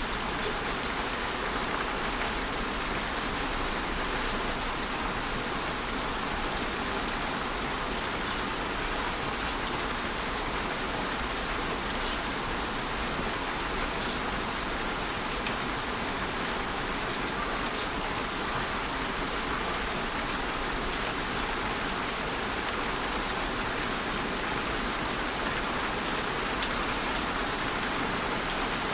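Steady rainfall, an even hiss of drops striking a surface, with faint individual drop ticks scattered through it.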